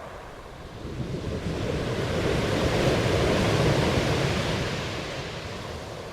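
Ocean waves: one wave surges in about a second in, builds to a peak midway and washes back out, fading toward the end.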